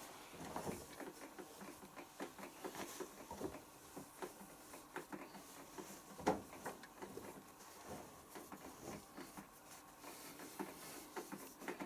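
Laundry being pushed by hand into a front-loading washing machine drum: faint rustling of fabric with many small irregular clicks and knocks, one louder knock a little after halfway.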